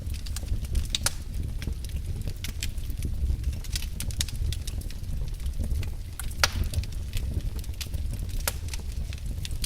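Wood fire burning in a fireplace, with a steady low rumble of flames under irregular crackles and pops. The sharpest pop comes about six and a half seconds in.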